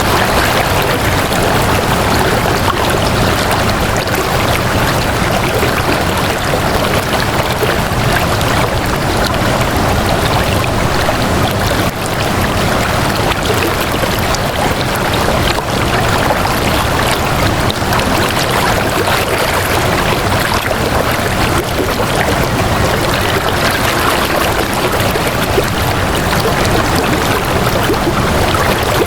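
Flowing water rushing steadily, a continuous even wash with no breaks.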